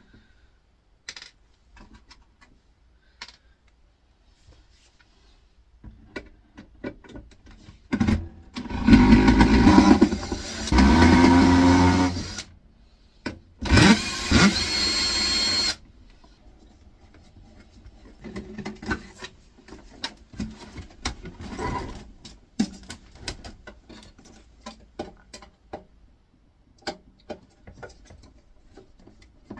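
Power drill-driver running in two bursts of a few seconds each, about eight and fourteen seconds in, the second starting with a rising whine. Between and after them, scattered clicks and taps of screws and metal parts being handled.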